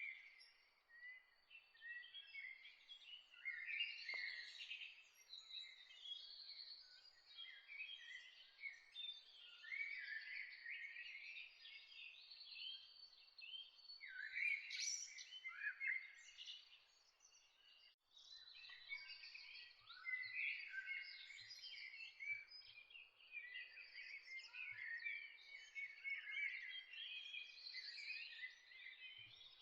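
Several birds chirping and singing over one another in a dense, continuous dawn chorus of short high calls and warbles, with a brief lull a little past halfway.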